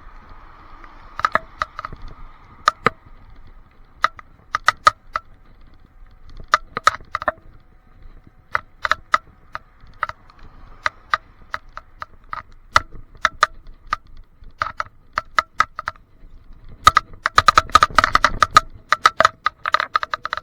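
Irregular hard plastic clicking and rattling from an action camera in its waterproof case on a handlebar mount, each click ringing briefly, with a dense burst of rattles near the end. The cause of the rattle is unknown to the owner.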